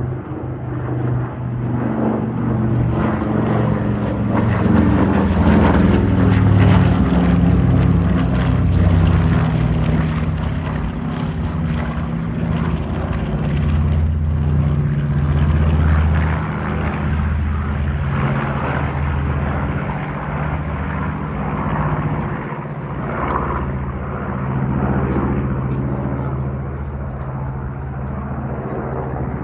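North American B-25J Mitchell's two Wright R-2600 radial engines running as the bomber flies overhead. The engine note falls in pitch as it passes, loudest about six to eight seconds in, then holds steady and slowly fades as it moves away.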